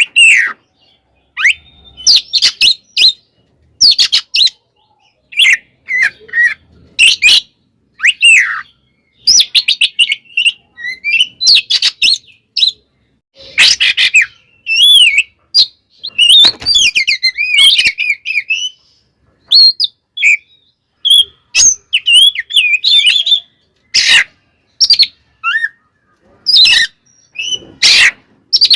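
Oriental magpie-robin (kacer) singing loudly in its agitated fighting style: quick bursts of whistled notes sweeping up and down, mixed with harsh rasping notes and broken by short pauses.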